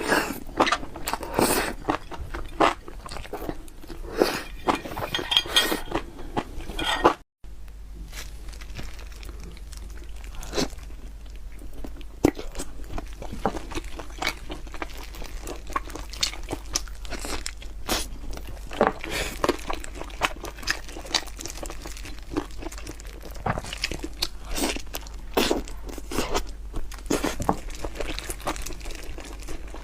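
Close-up eating sounds: a person biting and chewing crunchy food, with irregular loud crunches and a brief break about seven seconds in.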